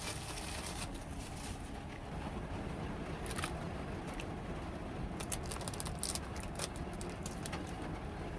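Heavy rain drumming steadily on the roof of a kei van, heard from inside the cabin, with scattered light clicks and crackles, most of them in the second half.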